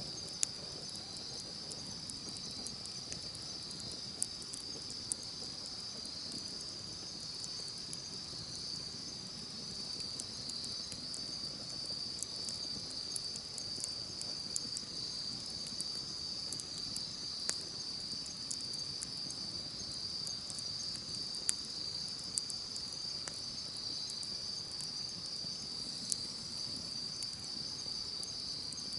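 A wood campfire crackling with scattered sharp pops and a soft low rustle, over a steady high-pitched insect chorus that never lets up.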